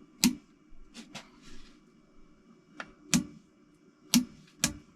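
Hand tools working on engine bolts: a handful of sharp metallic clicks and knocks at uneven intervals, from the wrench being fitted and turned while the bolts are angle-tightened to 90 degrees.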